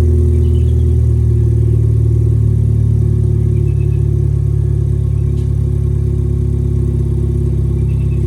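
Ford Fiesta ST's turbocharged engine running through a newly fitted stainless side-exit 2J Racing exhaust, idling with a low, steady drone; the note shifts slightly about a second in.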